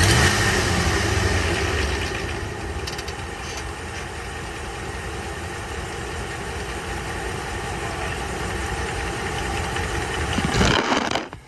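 Ram 1500 pickup engine running steadily, with a knock that the owner questions as possible rod knock. The sound swells briefly near the end, then drops away suddenly.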